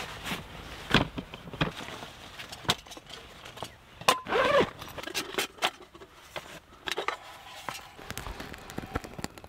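Camp gear being handled on leaf litter: scattered clicks, knocks and rustles as a folding camp chair is moved and gear is worked at on a sleeping pad. A short voiced sound comes about four and a half seconds in.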